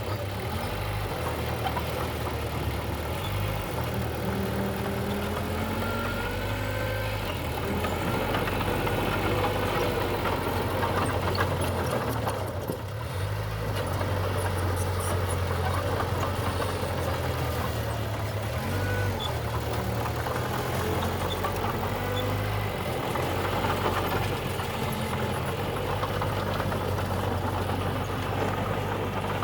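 Diesel engine of an earthmoving machine running continuously, its speed stepping up and down every few seconds as it works, with faint whining tones rising and falling over it at times.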